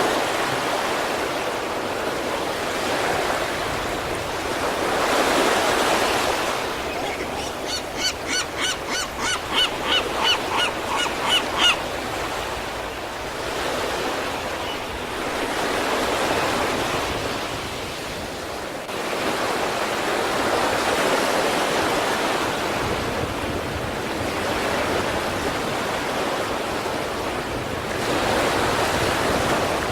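East Sea surf washing in, swelling and easing about every five seconds. From about seven seconds in, a run of roughly fifteen short, pitched calls, about three a second, grows louder over some four seconds and stops abruptly.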